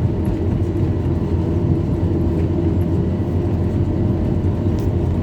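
Engine of heavy earth-moving machinery running steadily at an even pitch, without revving.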